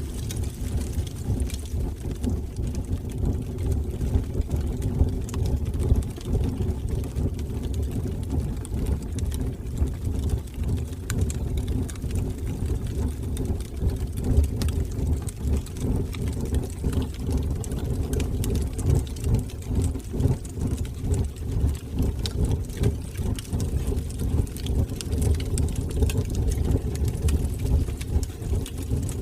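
Wood fire burning in a fireplace: a steady low rumble of flames with many small crackles and pops.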